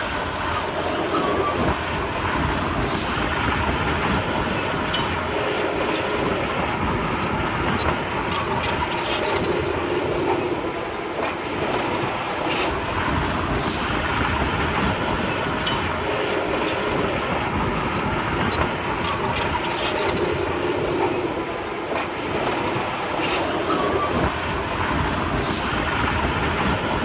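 Small crawler bulldozer (Komatsu D31P) working: its diesel engine running steadily, with irregular metallic clanks and squeaks from the steel tracks.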